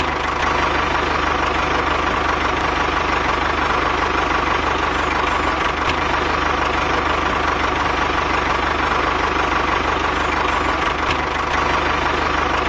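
Tractor engine running steadily at one speed, an even hum that does not rise or fall.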